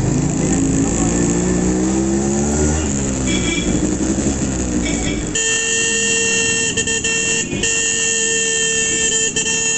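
Yamaha RX100's single-cylinder two-stroke engine revving up and down in slow traffic, with a couple of short horn toots. About five seconds in, a vehicle horn starts a long, steady blast that carries on to the end, broken briefly twice.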